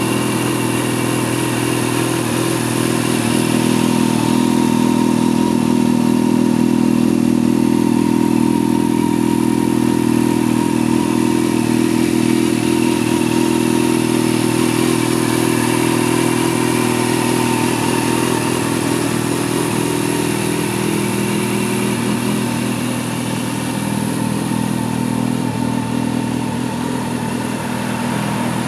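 Honda CBR600F's inline-four engine idling steadily at an even pitch, with no revving.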